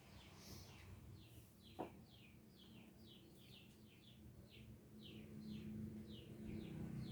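Faint chirping of a small bird: a run of short, downward-sliding chirps, two or three a second, over a low rumble. A single brief, sharp sound stands out about two seconds in.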